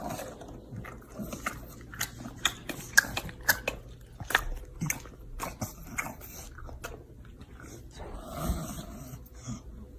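A dog chewing and crunching on food, with many quick, irregular crunches.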